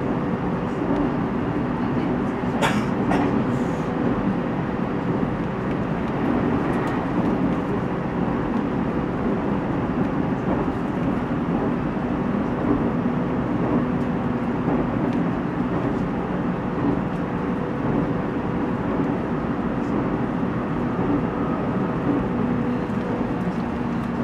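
Inside the passenger car of a JR 313 series electric local train running at speed: steady rumble of wheels on the rails with a steady low hum. A couple of brief clicks come about three seconds in.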